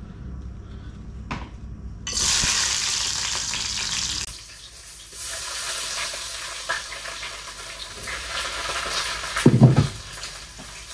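Chopped onions go into hot oil in a pan about two seconds in, setting off a loud sizzle that settles after a couple of seconds into steady frying. A short low knock comes near the end.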